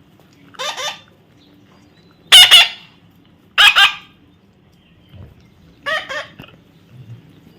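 A parrot squawking: four short, harsh calls spaced about a second or more apart, the second of them the loudest.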